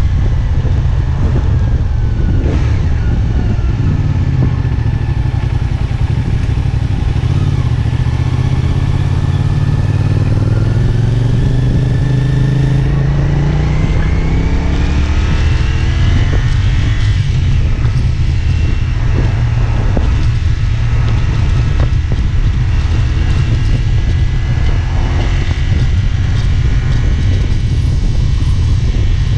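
CFMOTO 450SR S sport bike's parallel-twin engine heard from the rider's seat while riding, over a steady low rumble. About ten seconds in the engine note climbs steadily as the bike accelerates, then drops back and keeps changing with the throttle.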